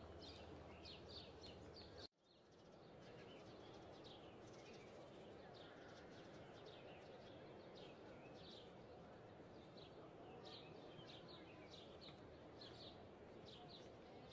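Faint birdsong: many short, high chirps from small birds, repeating throughout over a steady background hiss. The whole sound cuts out abruptly about two seconds in and fades back up within a second.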